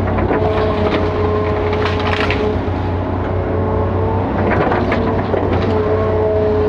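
Hitachi 5G-series hydraulic excavator running steadily, its diesel engine droning under a pitched hydraulic whine that comes and goes, with scattered cracks and knocks as it works.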